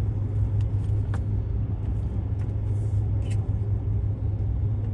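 Steady low rumble with a constant hum, with a few faint clicks over it.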